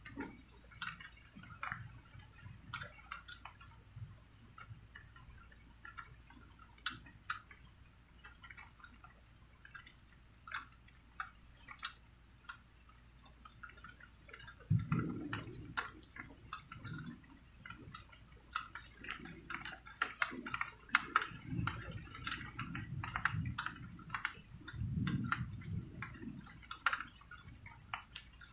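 Rain dripping and pattering in irregular drops, with several short low rumbles of distant thunder about halfway through and again near the end.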